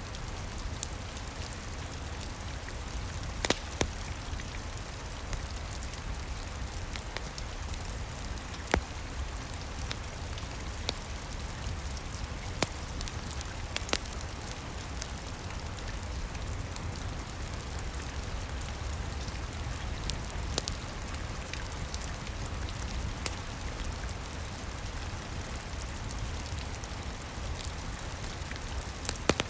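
Steady rain with a low rumble underneath, and a wood fire crackling, with a few sharp pops scattered through.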